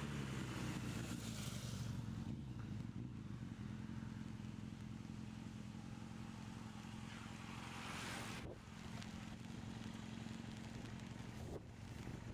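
A car engine running slowly in low gear, a steady hum, as the car creeps along behind racing cyclists. About eight seconds in, a rushing sound swells up and then cuts off abruptly, leaving a fainter engine hum and outdoor background.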